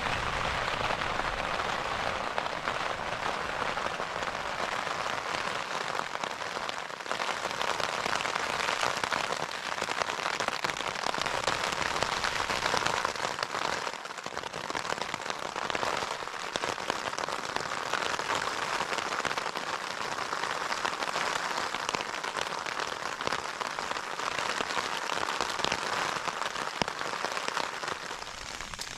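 Heavy rain falling on a tent, heard from inside: a dense, steady hiss of countless small drop impacts on the fabric.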